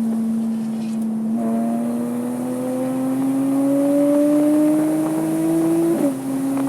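Porsche 987.2 Cayman S's 3.4-litre flat-six accelerating, its note climbing steadily for several seconds. About six seconds in, an upshift drops the pitch suddenly, and it starts climbing again.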